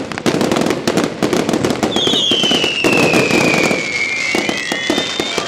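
Fireworks crackling and popping in a rapid, dense barrage. About two seconds in, a long whistle begins and falls slowly in pitch for a couple of seconds.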